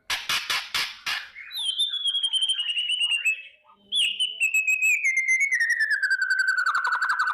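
White-rumped shama giving its harsh rattling 'kretek' call, about five quick rasping bursts, then two long whistled trills that slide downward in pitch, the second longer and ending lower.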